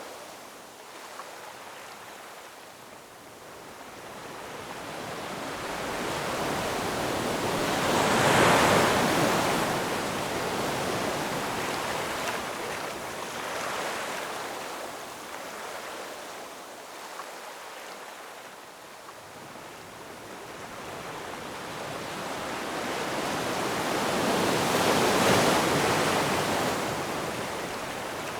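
Ocean waves breaking on a shore, a steady wash of surf with two big swells, one about a third of the way in and one near the end, each building slowly and then fading.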